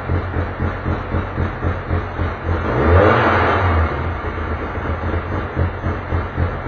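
Touring race car engine running at idle with an even, pulsing beat, with a brief swell of revs about halfway through.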